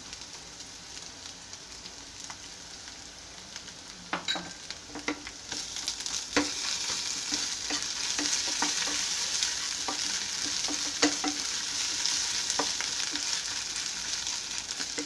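Chopped onions with ginger and garlic paste frying in hot oil in a non-stick pan, sizzling while a wooden spatula stirs and scrapes them, with scattered knocks of the spatula on the pan. The sizzle grows louder about five seconds in. The pastes are being fried off to drive out their raw smell.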